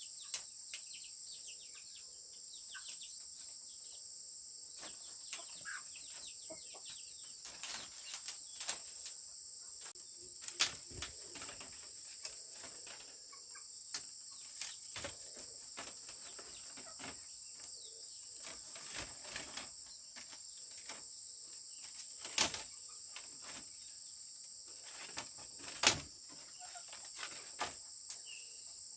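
Insects chirring steadily in a high band, with scattered sharp knocks. The two loudest knocks come near the end.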